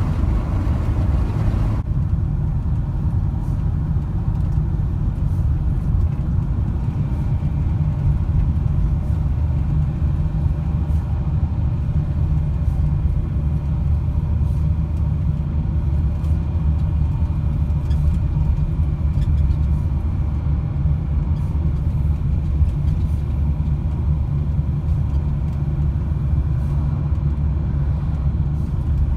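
Steady low rumble of a van driving on the road: engine and road noise.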